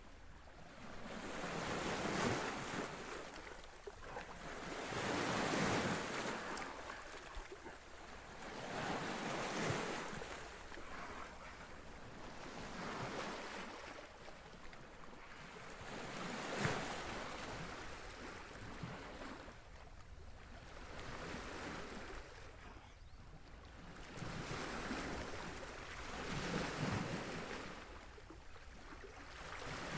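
Waves washing in against a shore, one swell of rushing water about every three to four seconds.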